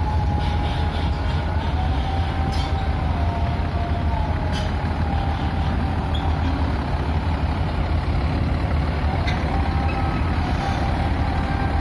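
A heavy vehicle's engine runs steadily with a deep rumble and a faint wavering whine, most likely an aircraft boarding-stair truck being manoeuvred. A few faint clicks come through now and then.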